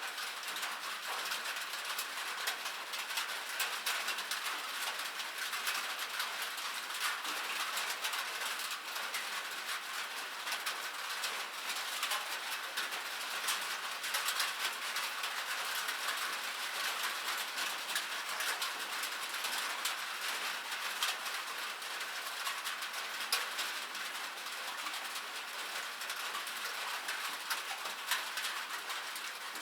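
Steady rain falling on metal: a dense patter of drops with many sharp individual ticks.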